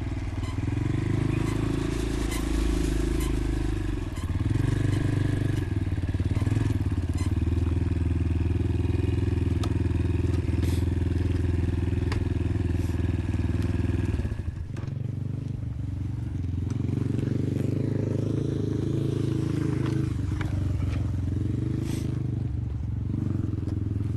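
Motorcycle engine running while riding, its revs rising and falling with the throttle. About fourteen seconds in the revs drop sharply, then build again.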